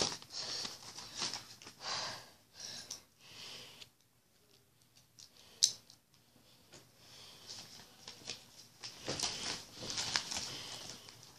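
Small building-set pieces being handled and fitted together by hand, with light rustling and scraping and one sharp click a little past halfway.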